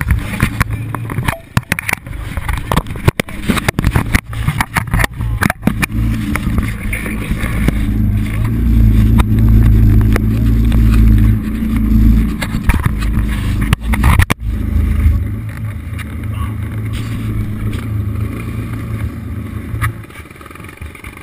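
Dirt bike engine running hard over a rough track, heard from the rider's helmet, with wind buffeting and knocks on the microphone. The engine is loudest in the middle, cuts off sharply for a moment about 14 seconds in, then runs lower and fades near the end.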